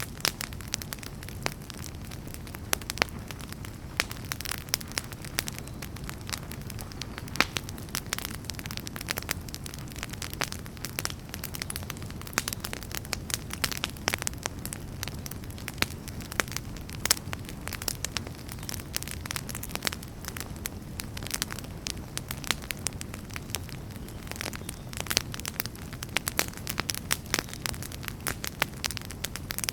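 Wood fire burning in a fireplace: a steady low rumble of flames with many irregular crackles and occasional sharper pops of splitting wood.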